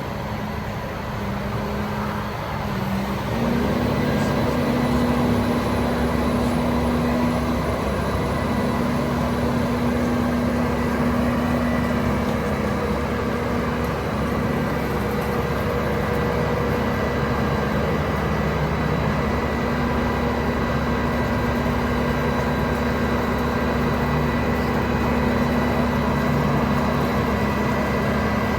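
Truck's Cummins L9 diesel engine running steadily. About three seconds in, its pitch and level step up and then hold at the higher speed.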